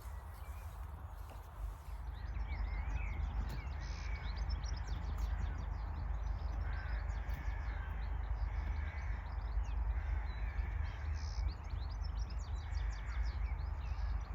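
Birds calling repeatedly over a steady low rumble of wind on the microphone, with bursts of scratchy rustling, typical of weeding in soil by hand.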